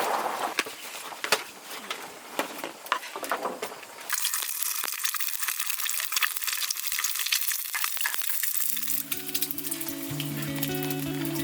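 Crackling and sizzling with many small pops. About four seconds in it turns thin and hissy, and background music with held notes comes in about two-thirds of the way through.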